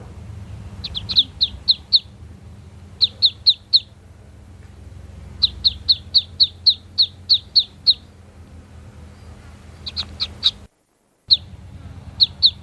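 Duckling peeping: quick runs of short, high-pitched cheeps, three or four at a time and a longer run of about nine in the middle, over a low steady background hum. The sound cuts out briefly near the end.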